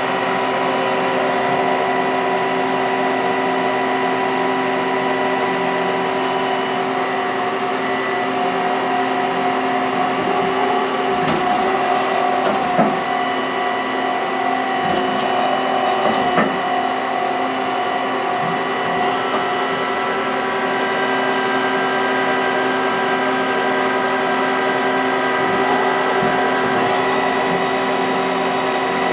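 STAR SV12 CNC Swiss-type automatic lathe running: a steady motor and spindle whine made of several held tones, with a few sharp clicks near the middle. Higher whining tones come in about two-thirds of the way through and again near the end.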